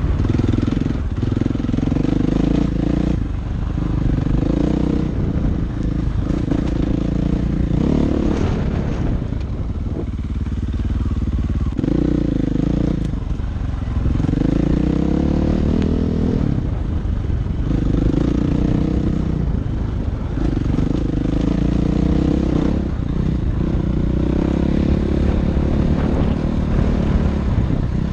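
Dirt bike engine running under way, the throttle opening and closing every few seconds so the engine note rises and drops over and over.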